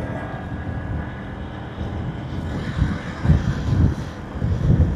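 Motorbike riding on the road: a steady low engine and road rumble, with wind buffeting the microphone in strong gusts from about three seconds in.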